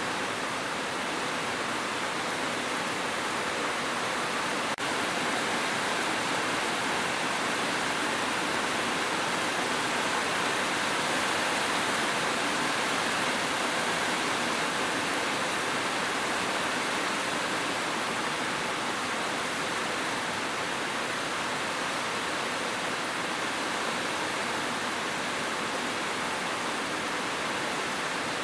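Steady, even rain, a constant hiss with no separate drops or rumbles standing out.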